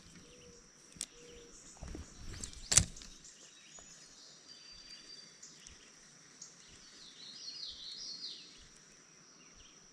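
Faint creekside ambience: small birds chirping in a run of short, quick falling calls through the middle and latter part, over a steady high-pitched tone. A sharp click about three seconds in, after a soft one about a second in.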